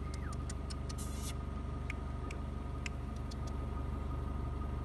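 A car engine idling with a steady low hum, with a scatter of short sharp ticks over the first three seconds or so.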